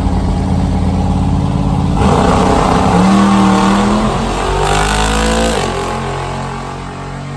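Car engine running steadily, then revving up about two seconds in, its pitch climbing for a few seconds before falling back.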